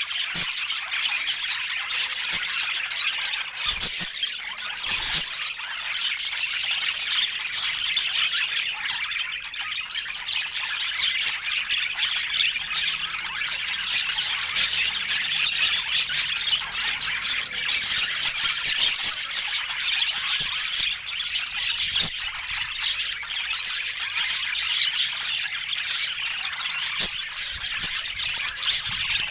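Budgerigars chattering and squawking without a break, a dense high-pitched warble with sharp clicks here and there.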